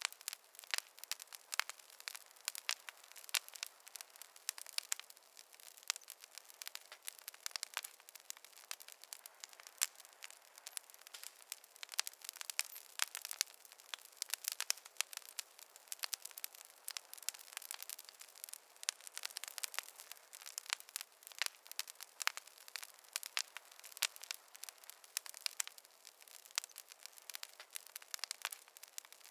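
Wood campfire crackling: a steady run of small, irregular pops and snaps, several a second.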